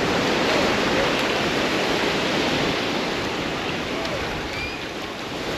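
Ocean surf washing against the shore: a steady rush of water that eases a little near the end.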